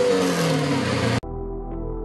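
Car engine sound held after a rev, its pitch slowly falling, cut off abruptly a little over a second in. Soft ambient background music with held chords then takes over.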